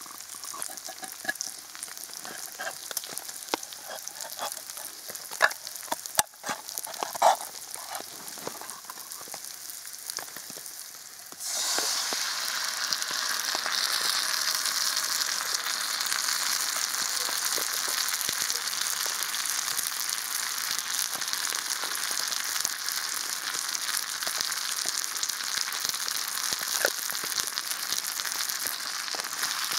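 Food frying in a pan over a camp stove: crackling and sizzling with a few sharp knocks, then about eleven seconds in the sizzle jumps suddenly louder and stays steady.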